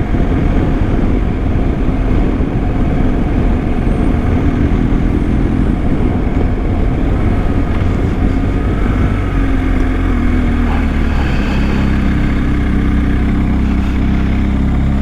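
BMW GS Adventure motorcycle engine running under way, with wind and road noise. The engine note shifts about ten seconds in and then holds steady.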